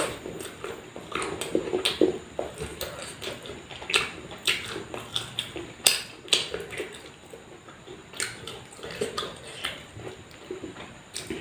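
Close-miked eating: irregular wet chewing and lip smacking, broken by many short, sharp crunchy clicks.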